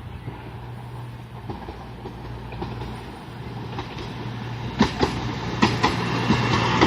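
A diesel train approaching with a steady low engine hum that grows louder, joined about five seconds in by sharp wheel clicks over the rail joints. The spotter takes it for a Class 220 Voyager unit.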